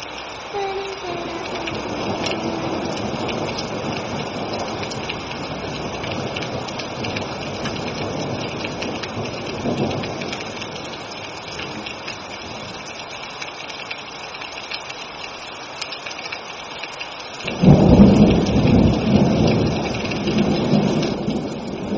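Steady heavy rain, with a low roll of thunder about ten seconds in and a much louder thunderclap rumbling about three-quarters of the way through, lasting a few seconds.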